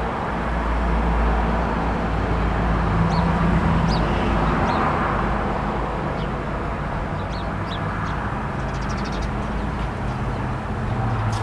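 Steady rumble of passing road traffic with the hum of engines in it, and short high bird chirps scattered over it, plus a quick rattling run of notes about nine seconds in.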